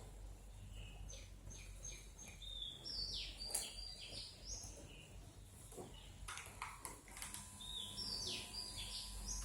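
Birds chirping in short, quick calls, several of them sweeping down in pitch, in two bursts: one early on through the first few seconds and another near the end. A few light clicks come in between, about six seconds in.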